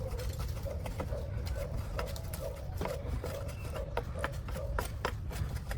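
Scattered light clicks and knocks at an uneven pace over a steady low rumble, with a faint wavering tone underneath.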